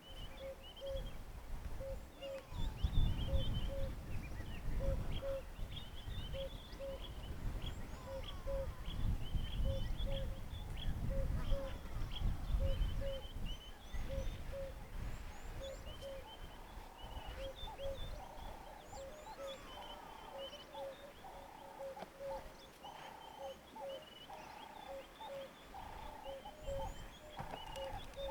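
Wild birds calling in the bush: a short low note repeated about twice a second over many quick high chirps and twitters. From about halfway on, a lower warbling phrase repeats every second or so. A low rumble runs under the first half.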